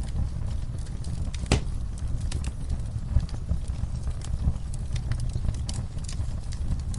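Wood fire in a fireplace crackling and popping, irregular sharp pops over a steady low rumble, with one louder pop about a second and a half in.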